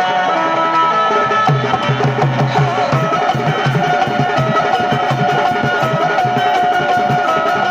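Instrumental Indian folk music: a fast, even drum beat comes in about a second and a half in, under a held, slightly wavering melody line.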